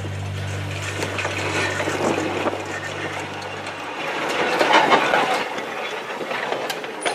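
Railway car running on track: rolling rail noise with scattered clicks, swelling about five seconds in. A steady low hum underneath stops about four seconds in.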